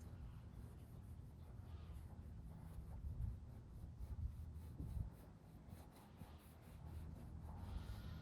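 Rubber eraser wheel on a low-speed drill rubbing emblem adhesive off a truck's paint: a faint steady low hum with scratchy rubbing over it, a little louder around three and five seconds in.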